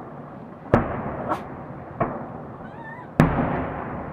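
Fireworks display: aerial shells bursting, with two big bangs, one about a second in and one near the end, and smaller pops between them, each bang trailing off in a rumble.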